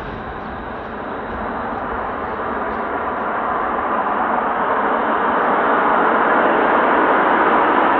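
Jet aircraft noise, presumably a Blue Impulse Kawasaki T-4: a steady roar growing louder throughout.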